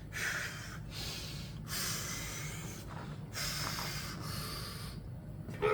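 A man breathing hard and forcefully, a series of loud breaths under the strain of a heavy lift, over a steady low hum.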